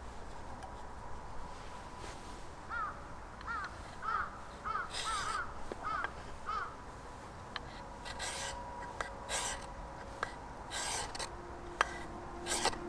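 Bird calling: a run of about seven short rising-and-falling calls, about half a second apart, followed by several short, harsher noisy sounds.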